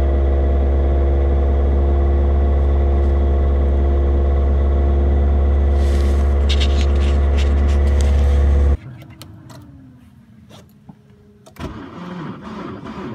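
An old Volvo 740's engine running steady and loud in the deep cold, heard from inside the cabin, until it cuts off abruptly about nine seconds in. After a short quieter stretch with a faint falling hum and a few clicks, a Peugeot 107's 1.0 three-cylinder engine starts cranking near the end, a cold start at about −30 °C after standing 24 hours.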